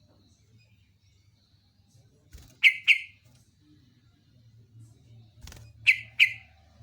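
Yellow-vented bulbul (trucuk) calling: two pairs of short, loud, clipped notes, the first pair about two and a half seconds in and the second near the end. A short click comes just before the second pair.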